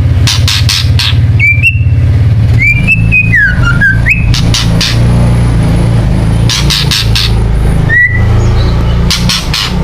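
White-rumped shama (murai batu) giving harsh rattling 'kretek' calls in short bursts of rapid clicks, with a few brief whistled notes between them, over a loud steady low hum.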